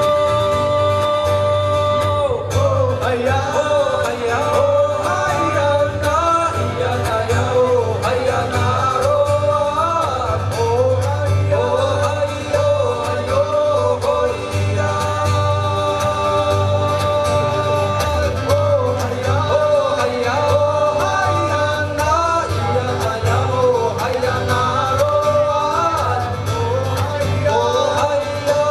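Live music: a man singing over a band, his voice coming in about two seconds in over steady instrumental backing.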